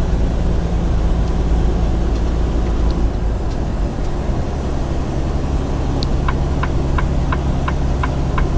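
Semi-truck engine droning steadily inside the cab, its note changing about halfway through. Near the end the turn signal starts ticking, about three ticks a second.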